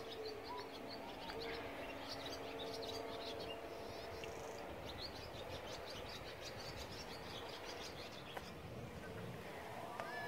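Small birds chirping over and over in a faint outdoor background, with a steady low hum in the first few seconds and a brief falling call near the end.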